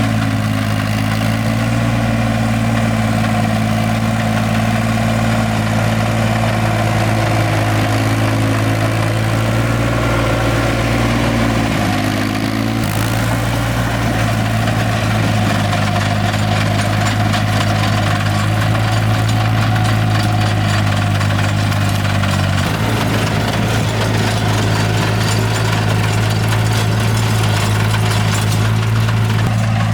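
An engine running steadily at a constant speed, its tone shifting twice: briefly around the middle and again about two-thirds of the way through.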